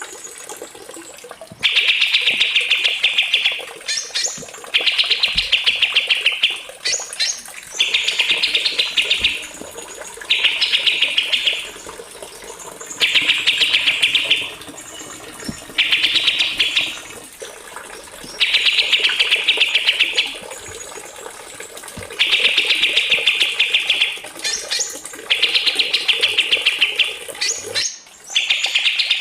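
Small songbird singing a rapid, rolling trill over and over, about nine phrases of one to two seconds each with short pauses between, and a few brief high rising whistles in between.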